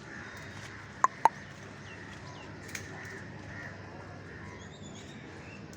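Two sharp clicks about a quarter second apart, then a few faint bird chirps over a steady outdoor background.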